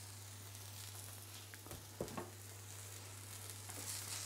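Chicken breast sizzling faintly on a hot ridged char grill pan, a steady hiss, with a couple of light utensil knocks about two seconds in and a low steady hum underneath.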